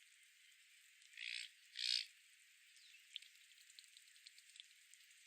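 Two short, harsh squawks from a water bird, about a second and two seconds in, followed by faint scattered bird chirps.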